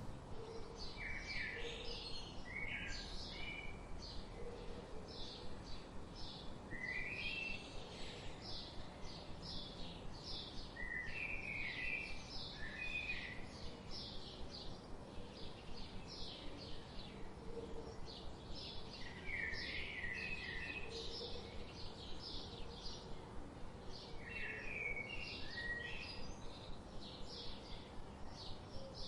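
Several birds chirping: a steady stream of short, high chirps, with a lower warbled song phrase breaking in every few seconds.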